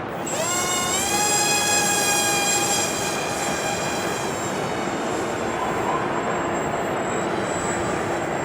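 The Twisted Hobbies Twin Crack Wing's two small brushless motors (Emax 1106 8000kv) with 3-inch propellers spool up to a high whine that rises in pitch over the first second. The whine holds steady until about four seconds in, then fades as the plane flies off. Steady wind noise on the microphone runs underneath.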